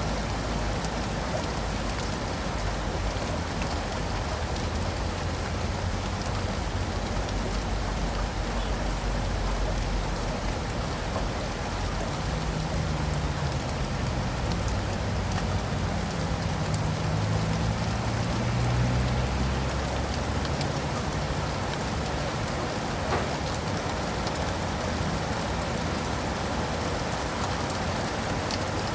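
Steady rain pattering on leaves and pavement, a dense hiss of many small drop ticks. Midway a low vehicle rumble swells and fades as it passes.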